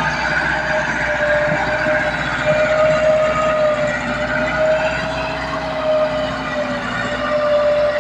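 Massey Ferguson 385 tractor engine running steadily under load, with a high-pitched whine that wavers slightly in pitch over a low rumble.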